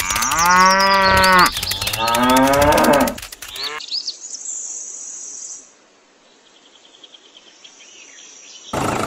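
A cow mooing twice, two long calls, followed by bird chirps and a high steady trill. Near the end an engine starts running abruptly.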